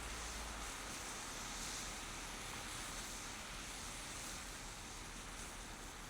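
Steady hiss of a car driving on a snowy city street: tyre and road noise with a low rumble that fades out under a second in.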